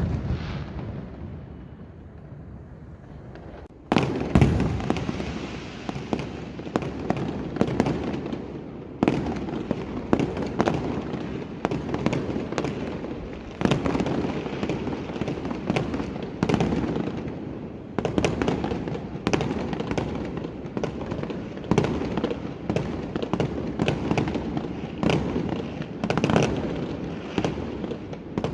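Fireworks and firecrackers going off: a bang fades away at first, then about four seconds in a dense, continuous crackle of rapid pops starts, with louder bangs every few seconds.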